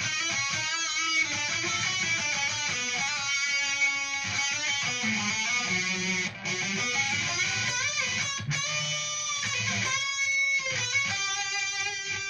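Guitar playing a lead solo line, single notes with string bends and vibrato, the notes changing continuously.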